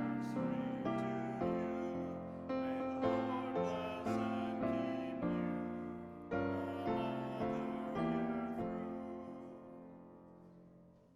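Piano playing slow, quiet chords; the last chord, struck a little past two-thirds of the way through, is left to fade away.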